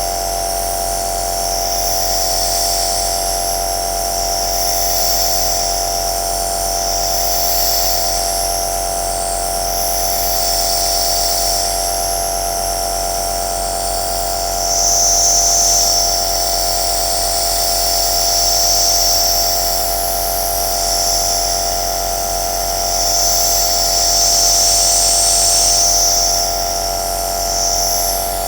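Compressor nebulizer (aerosol machine) running: a steady motor hum with a high airy hiss that swells and fades every few seconds.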